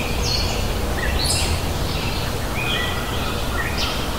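Birds calling with short whistled notes, some stepping down in pitch, several times over a steady low outdoor rumble.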